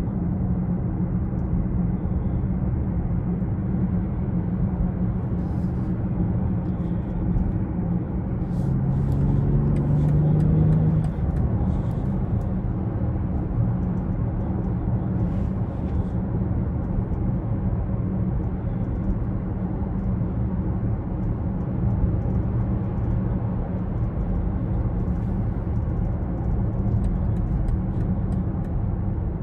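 2020 BMW X6 40i on the move: its turbocharged 3.0-litre inline-six and road noise make a steady low rumble. About nine seconds in, the engine note rises for a couple of seconds as the car accelerates, then settles back.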